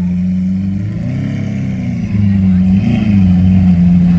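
Lamborghini Aventador's V12 engine idling steadily, then revved up and back down about a second in, with a second short blip near three seconds in. It is louder from about the middle on.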